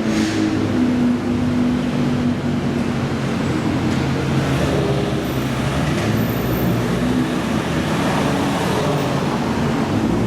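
Supercar engine running steadily at low revs, a deep, even engine note whose pitch shifts slightly.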